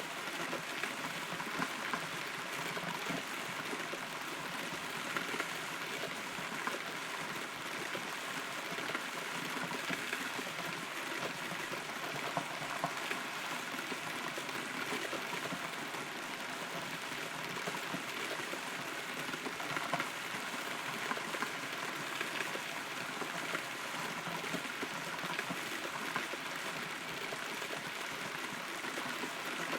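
Steady rain heard from inside a hollow rotten tree trunk: an even hiss of falling rain with many small drip ticks scattered through it.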